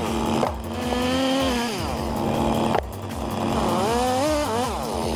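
Chainsaw running, its engine pitch rising and falling again and again as the throttle is worked, with abrupt breaks in the sound about half a second and about three seconds in.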